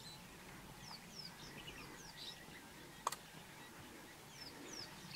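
Scattered short, high bird chirps, each sliding down in pitch, over a faint steady background hiss, with a single sharp click about three seconds in.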